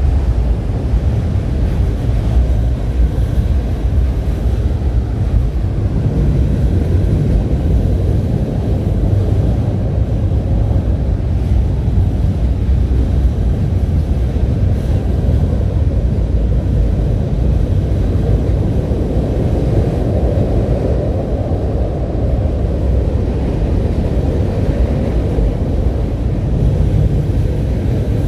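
Steady low vehicle rumble with wind noise on the microphone, even throughout with no horn or sudden sounds.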